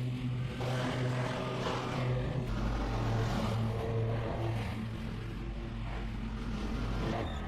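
Small gasoline engine of yard equipment running at a steady speed, its hum rising and falling a little in level, with a rushing hiss that swells and fades over it.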